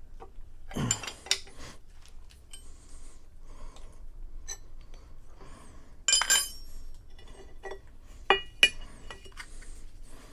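Metal clamps, tools and a cast iron workpiece clinking and clanking as the part is unclamped from the milling machine table. Several sharp ringing metal knocks stand out, the loudest about six seconds in and two more quick ones near eight and a half seconds, with softer scraping between them.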